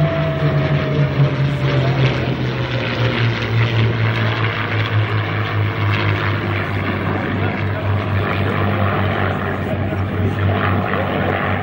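Propeller-driven warbird flying past, its piston-engine drone steady and loud, sinking slowly in pitch during the first few seconds as it goes by.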